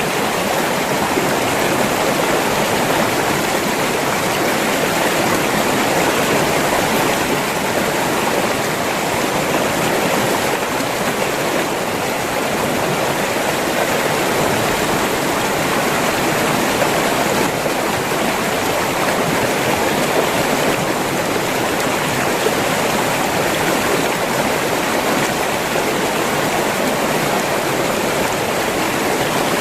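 River water flowing and rushing over rocks: a steady, even rush with no pauses.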